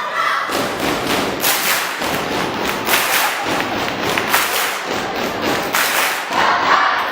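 A rapid run of loud, irregular thumps and crackles, with no clear voices.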